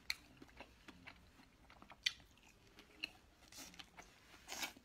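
A person biting and chewing spicy skewered snacks close to the microphone, with several short, crunchy clicks about a second apart.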